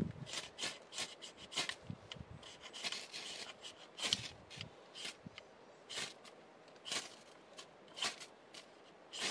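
Repeated rasping strokes on wood, quicker at first and then about one a second.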